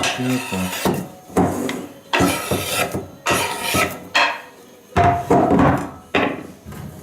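Convex-ground N690 stainless kitchen knife slicing cucumbers on a cutting board: about ten irregular cuts, roughly one every half to one second, each a sharp knock of the blade on the board with a short scrape.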